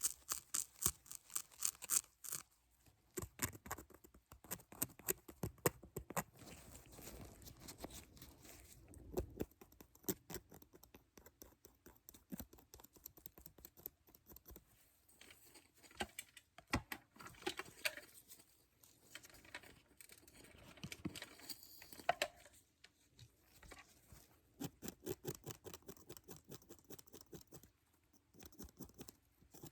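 Close-miked ASMR tapping and scratchy rustling: runs of quick light clicks and scrapes that come in spurts with short pauses between.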